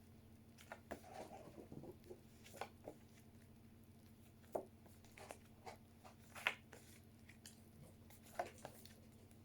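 Faint, scattered taps and rustles of paper flashcards being handled and shuffled, over near-silent room tone with a low hum.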